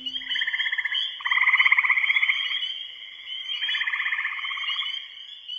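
A chorus of frogs calling: overlapping pulsed trills, each about a second long, follow one another over a steady high trilling.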